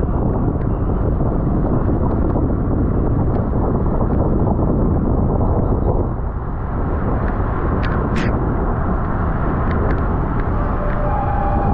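Wind rushing over the microphone of a camera on a road bike racing at speed, a steady heavy rumble that eases briefly about halfway through, with a few faint clicks.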